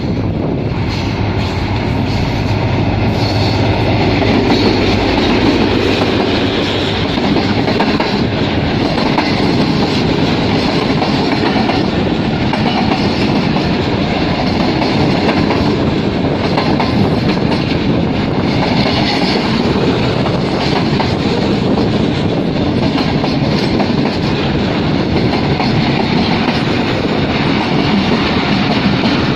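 Train running at speed, its wheels clattering steadily over the rail joints, with a steady low hum in the first few seconds.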